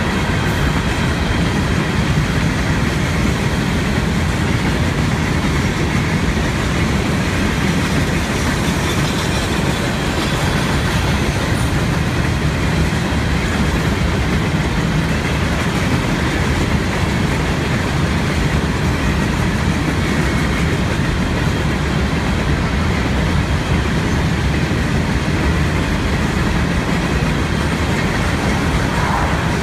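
A Florida East Coast freight train of empty cars rolling past at a grade crossing: a steady rumble of steel wheels on the rails, unbroken throughout.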